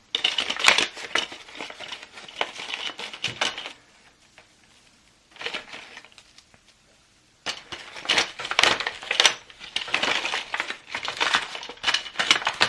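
Stiff plastic packaging crinkling and crackling in bursts as it is handled and opened by hand. There is a pause in the middle with one short crackle.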